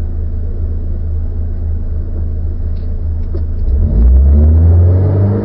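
Car engine running with a steady low rumble, then accelerating about three and a half seconds in, its pitch rising and the sound getting louder.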